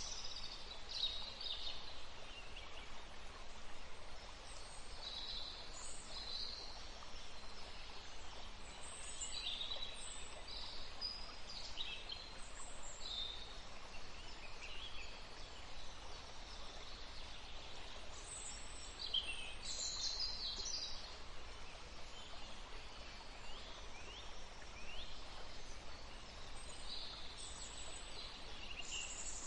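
Several forest birds calling, with short high chirps and brief song phrases coming and going throughout, over a steady soft hiss of breeze.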